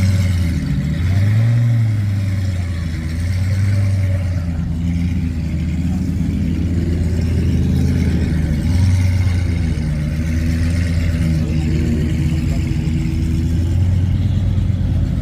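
Car engine running at a low idle, revved about seven seconds in, the pitch climbing and then falling back.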